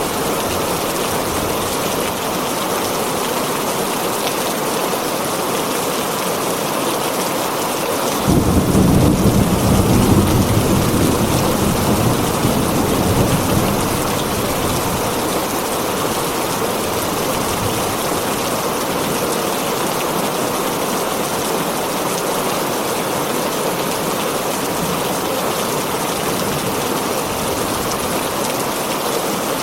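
Heavy rain falling steadily on a tin roof. About eight seconds in a clap of thunder breaks in suddenly and rumbles low, fading away over the next five or six seconds.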